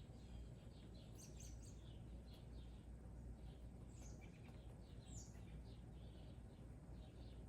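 Birds singing outside, faint: a steady run of short chirps, with two brighter calls that slide downward in pitch about four and five seconds in, over a low steady background noise.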